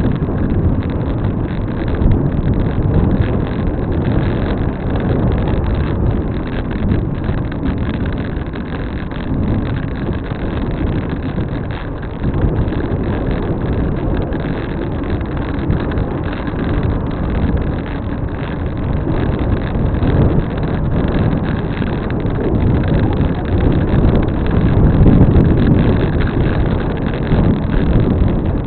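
Steady low rumble of wind buffeting the microphone while riding a bicycle, rising and falling in strength with a louder gust near the end.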